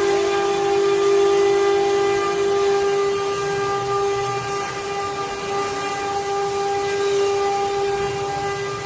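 CNC router spindle running with a steady high whine over a hiss.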